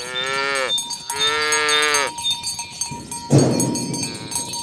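Cows mooing: two long moos in quick succession, each dropping in pitch as it ends. About three seconds in comes a short, loud rush of noise.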